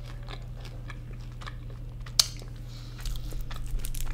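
Close-up chewing of cheesy loaded fries with the mouth closed, with small wet mouth clicks and one sharp click about two seconds in. Near the end a wooden fork digs into the fries on a foil tray, adding a burst of clicking and rustling.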